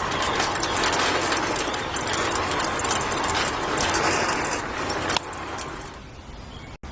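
Small motor and gears of a DIY mini tractor's rotavator running, with many small clicks. About five seconds in the sound drops suddenly to a quieter level, and it cuts out for an instant near the end.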